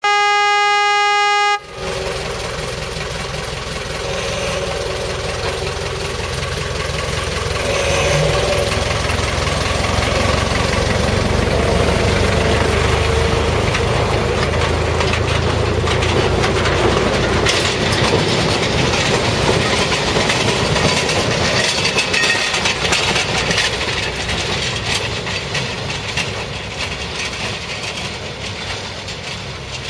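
A Tanimura-type forest railway locomotive sounds a steady horn blast of about a second and a half. It then runs along the narrow-gauge track with a continuous rumbling clatter that builds up about eight seconds in.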